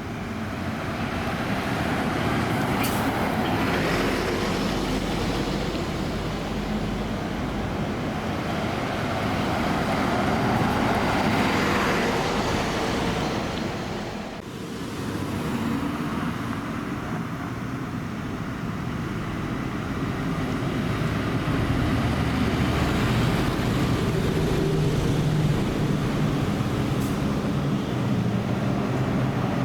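Diesel buses running in a slow-moving queue, the drone of their engines rising and falling as they pass. Two short hisses are heard, about three seconds in and near the end.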